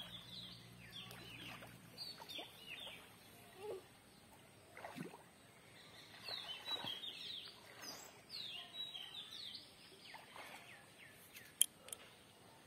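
Birds calling with short, high, falling chirps, repeated again and again. One sharp click near the end.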